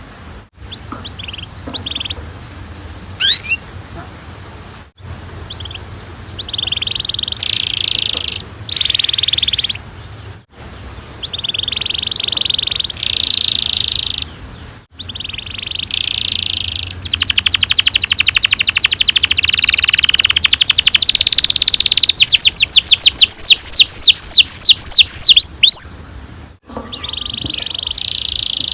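Domestic canary singing. It starts with short chirps and whistles, then sings bursts of fast trills, building to a long rolling trill of about nine seconds, the loudest part, which ends in a run of falling whistled notes.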